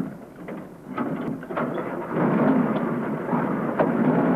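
Jeep engine starting up and running, its noisy rumble growing louder and steadier about two seconds in.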